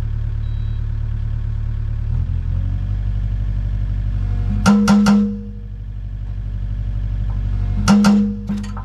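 Kubota U55 mini excavator's diesel engine running and stepping up in speed about two seconds in. An Agrotk hydraulic hammer breaker fires in two short bursts, about halfway through and near the end, sounding like a jackhammer: its first test run, showing that it works.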